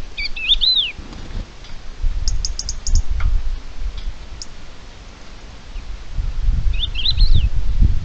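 Wild birds calling: short whistled notes that rise and fall near the start and again near the end, with a quick run of high ticks between. Wind rumbles on the microphone underneath.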